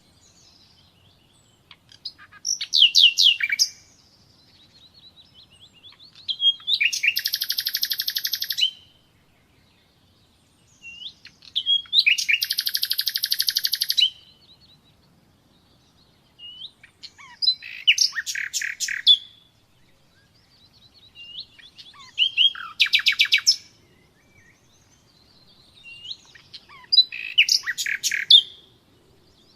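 Nightingale singing: about six separate phrases, each a fast run of repeated high notes and trills lasting one to three seconds, with pauses of a few seconds between.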